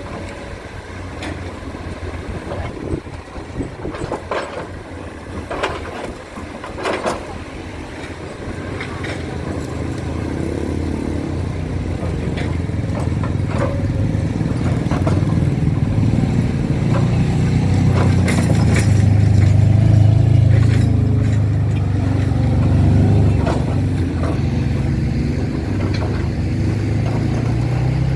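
Heavy diesel engine working under load, growing steadily louder through the first two-thirds and loudest about twenty seconds in, with scattered knocks and clatter early on.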